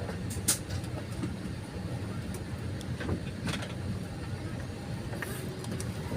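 Steady low hum inside an Airbus A320 airliner cabin on the ground before takeoff, with a few light clicks and knocks, the sharpest about half a second in and again around three and a half seconds.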